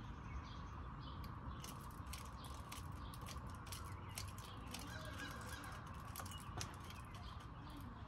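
Birds calling, with a run of short, sharp clicks and taps through the middle.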